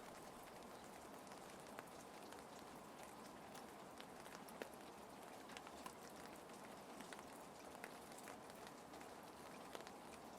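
Faint, steady rain ambience with scattered light ticks of drops.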